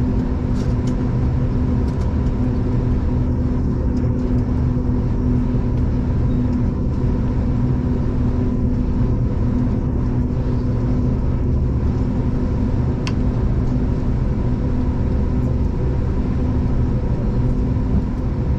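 Steady rumble of a V/Line passenger train underway, heard from inside the carriage, with a constant droning hum over the low running noise.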